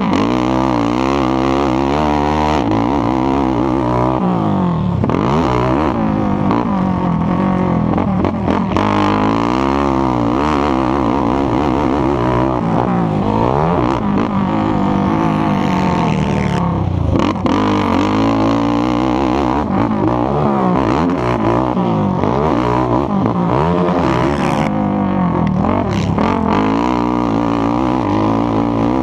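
Racing ATV engine revving hard and easing off over and over, its pitch rising and falling every second or two as it is ridden around a motocross track.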